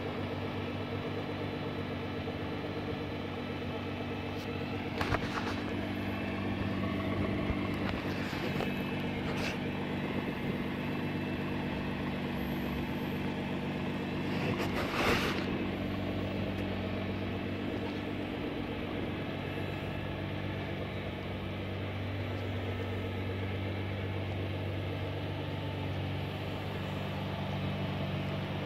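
Nissan GT-R R35's tuned 3.8-litre twin-turbo V6 idling steadily through an aftermarket Akrapovic exhaust, with a few short louder noises over it.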